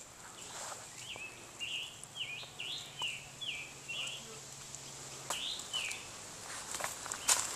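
A songbird singing a quick run of short, repeated slurred whistled notes, then a brief pair of notes a little later. Sharp clicks and rustling come in near the end.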